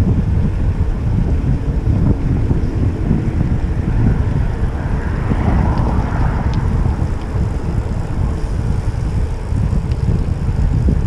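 Wind buffeting the microphone of a camera riding along on a moving gravel bike: a loud, steady low rumble, with a brief swell of hiss about halfway through.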